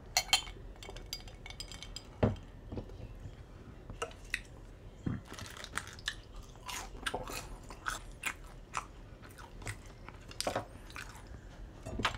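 A person chewing food close to the microphone, with irregular mouth clicks and smacks.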